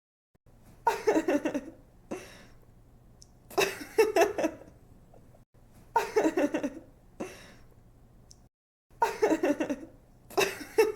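A young woman giggling in several short bursts of quick, pulsing laughter, with brief pauses between them.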